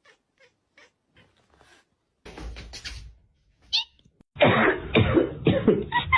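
A cat making a quick series of short, coughing calls, about three a second, starting about four seconds in. Before that come a few faint ticks and a brief high chirp.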